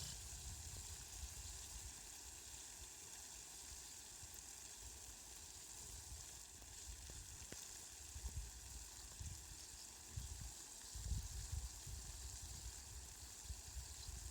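Rain falling steadily, a soft, even hiss, with low rumbles that come and go in the second half.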